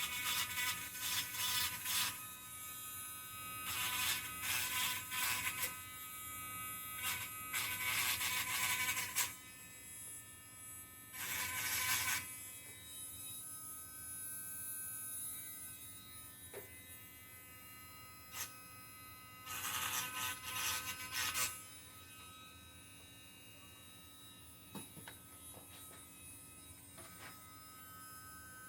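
Small handheld rotary tool running with a steady high whine, with bursts of harsh grinding as its bit is pressed against the engine block to remove burrs and rough edges: several bursts in the first half and one more around twenty seconds in.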